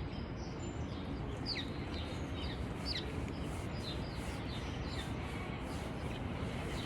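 A small bird chirping repeatedly in short, quick down-slurred notes, about one every half second to second, over steady background noise.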